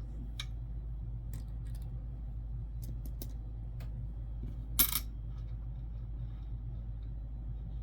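Light metal clicks of Jefferson nickels being handled and set down, with one louder clink about five seconds in, over a steady low hum.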